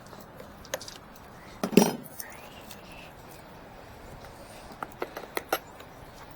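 Metal parts clinking and knocking: a short clatter about two seconds in, then a quick run of sharp clicks near the end.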